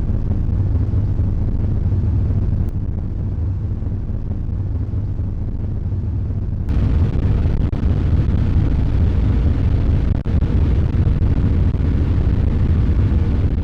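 Steady low rumble of a car ferry under way, from its engines and hull. It gets abruptly louder and fuller about seven seconds in.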